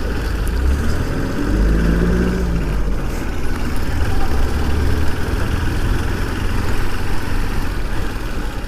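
Motor vehicle engine running on the road, a steady low rumble, with a brief rise and fall in engine pitch about two seconds in.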